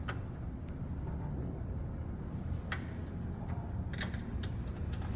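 Screwdriver driving the power supply's mounting screws into a computer case, a few light clicks and taps of metal on metal, over a steady low rumble.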